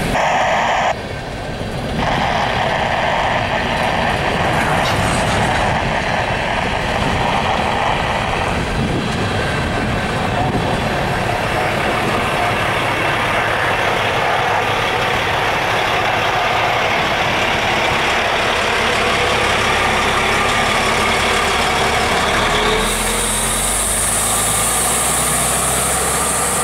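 Empty coal gondola cars of a freight train rolling past on the rails, a steady rumble and rattle of wheels. About three seconds before the end a semi-truck pulling a grain trailer drives by close, adding a low engine hum and a high hiss.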